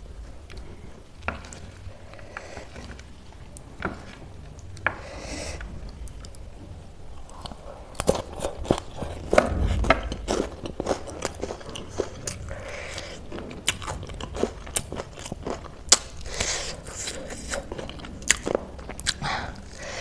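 A wooden spoon scooping a crunchy chatpatey snack mix with scattered light clicks. From about eight seconds in, close-up crunching and chewing of a full mouthful, with many sharp crackles.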